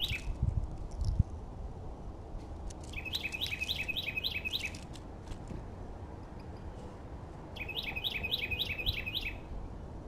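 A songbird singing two quick bouts of the same rapidly repeated two-note phrase, seven or eight times each, about three seconds in and again near the end. A couple of low thumps come in the first second.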